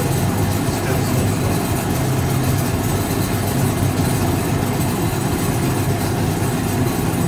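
1965 English Electric Liberator washing machine running with a steady low mechanical drone.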